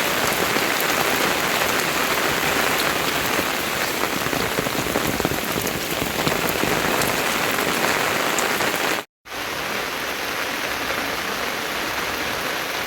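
Steady rain falling. The sound cuts out for an instant about nine seconds in, then resumes slightly quieter.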